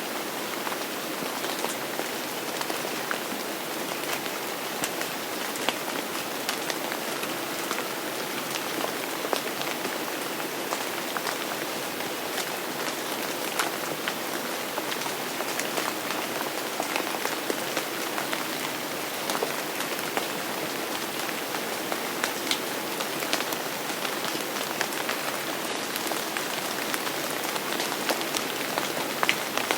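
Steady rain falling on a surface, an even hiss with many distinct drop ticks scattered through it.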